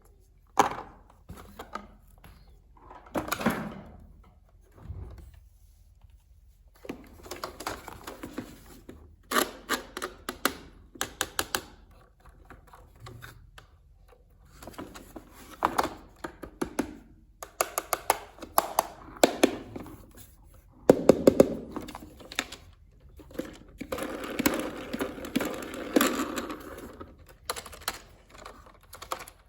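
Hands handling an RC toy's hard plastic parts and packaging: irregular runs of clicks, taps and light knocks, with stretches of rustling. There is a sharper cluster of knocks about two-thirds of the way through, then a longer rustle.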